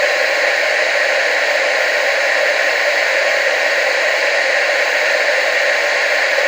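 Television static: a steady, unbroken hiss of noise, thin in the bass and fullest in the mid range.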